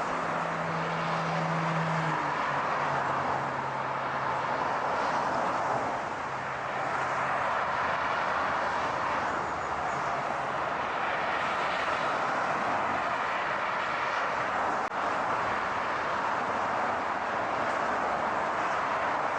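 Steady rushing noise of a moving car, with a low hum that steps down in pitch about two seconds in and fades out about halfway through.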